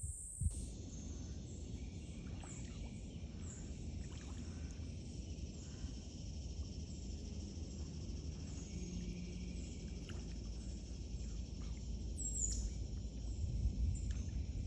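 Outdoor ambience: a low rumbling noise that grows stronger near the end, with short high chirps repeating about twice a second, likely insects or a bird.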